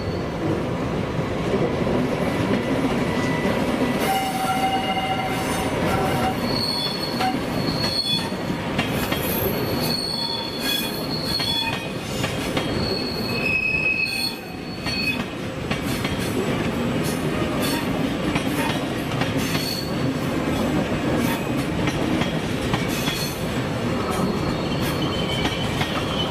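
A train running along the track with a steady rumble, its wheels squealing in thin high tones that come and go, most often in the first half.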